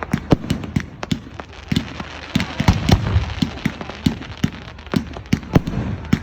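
Fireworks going off in a rapid, irregular series of sharp bangs and crackles over a low rumble.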